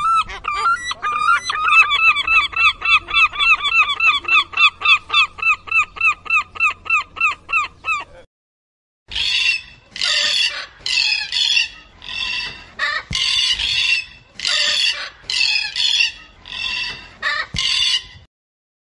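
A gull calling: a fast, even run of repeated yelping notes, about four a second, for some eight seconds. After a short pause, a blue-and-gold macaw gives a string of harsh squawks, roughly one a second.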